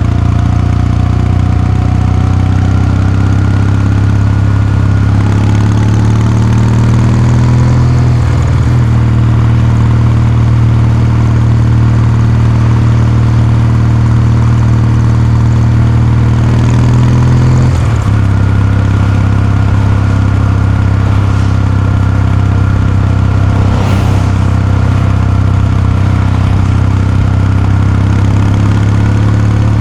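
Kawasaki Meguro K3's 773 cc air-cooled parallel-twin engine running steadily, its exhaust note rising slowly over the first few seconds, with brief breaks in the note about eight seconds in and again near eighteen seconds.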